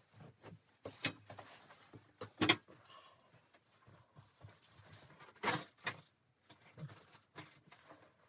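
A series of irregular knocks and clatters of things being handled, with light rustling between; the two loudest knocks come about two and a half and five and a half seconds in.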